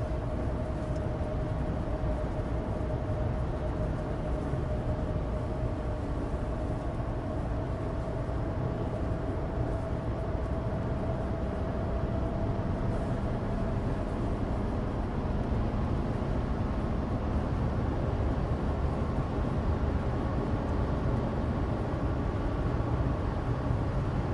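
Cabin noise of a 2016 Suzuki Alto Turbo RS (HA36S) cruising on a dry road: a steady low rumble of road and studless winter-tyre noise under the 660 cc turbocharged three-cylinder engine. A faint whine rises slowly in pitch over the first half.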